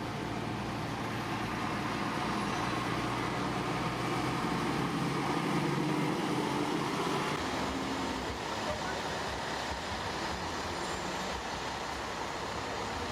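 Heavy diesel engine of an earthmoving machine running. It grows louder for a few seconds in the middle, then eases back.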